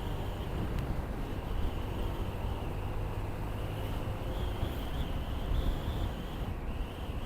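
Motorcycle running steadily at cruising speed, its engine and the rush of wind and road noise recorded on an action camera, with a steady high-pitched buzz above it.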